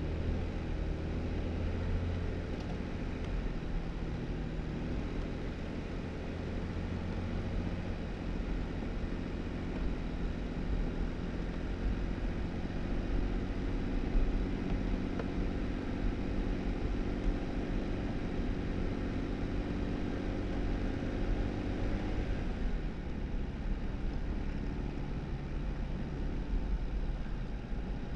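Jeep Wrangler driving on a snowy dirt road: a steady engine hum over continuous tyre noise. The engine tone drops away about twenty-two seconds in as the throttle eases off, leaving mostly tyre noise.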